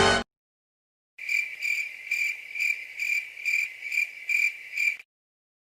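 A music clip cuts off right at the start. After about a second of silence, crickets chirp in an even rhythm, about two chirps a second, for roughly four seconds, then stop abruptly. This is the stock cricket sound effect used for an awkward silence.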